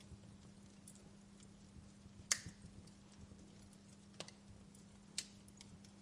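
Wood fire crackling: scattered sharp pops, the loudest about two seconds in and two more near four and five seconds, with fainter ticks between, over a faint steady hum.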